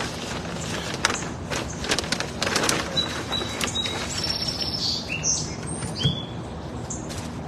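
Small birds chirping several short high notes in the second half, over brief rustling and scraping noises in the first few seconds.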